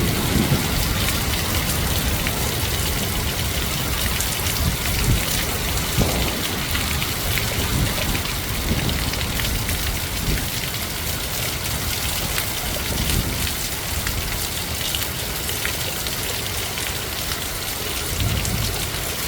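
Heavy wind-driven rain pouring down in sheets, a steady hiss, with gusts of wind rumbling unevenly on the microphone.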